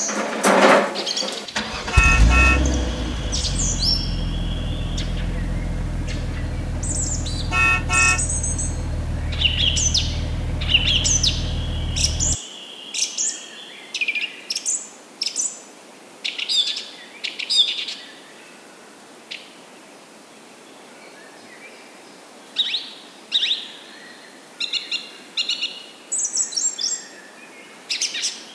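Small birds chirping in short, repeated calls. For the first ten seconds or so a steady low rumble runs underneath, with two short double beeps about two and eight seconds in, and the rumble cuts off abruptly.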